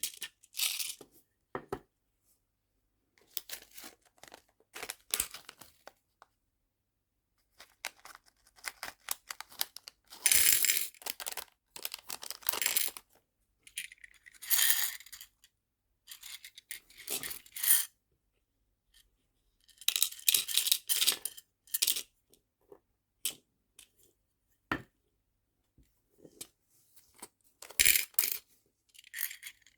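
Small nail-art charms clinking and rattling as they are sorted into storage boxes, in bursts of a second or two with short pauses between.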